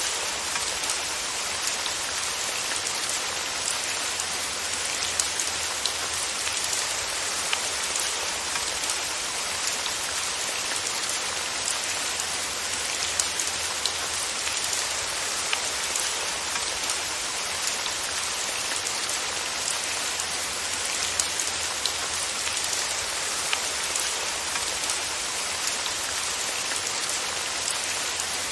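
Steady rain falling on a surface, an even hiss dotted with many small sharp drop ticks.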